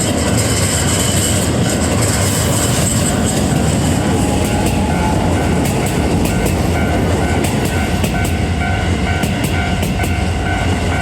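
Electric train running through a level crossing, its wheels clattering over the rails, while the crossing's warning bell rings on and on in an even, quick repeating ding.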